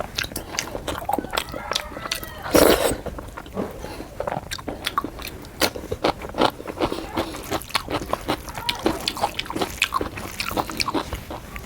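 Close-miked mouth sounds of a person eating fish curry with rice: wet chewing and lip smacks as many small clicks, with one louder crunchy bite about two and a half seconds in.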